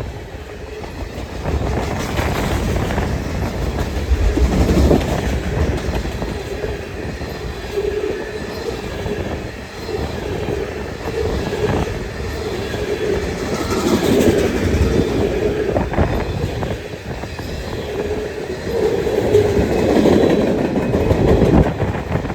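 Union Pacific manifest freight train rolling past, a steady rumble of freight cars with their wheels clicking over rail joints, and wind buffeting the microphone.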